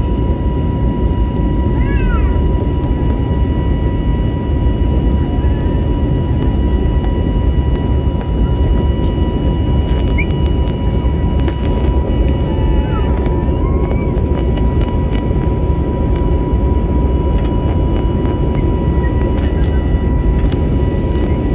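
Steady cabin noise inside an Airbus A320-family jet airliner in flight after take-off: a deep, even rumble of engines and airflow with a thin steady whine over it.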